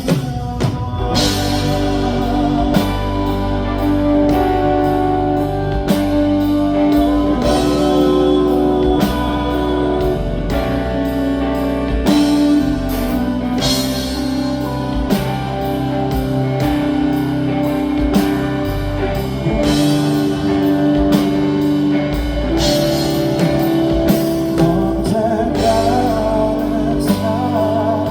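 Live band playing a rock ballad: a steady drum-kit beat under guitar and long held notes, with some singing.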